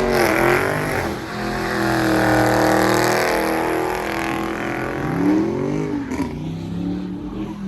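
High-performance car engine revved hard several times: the revs climb, hold high for a couple of seconds, drop, then come back in short blips and a final climb near the end.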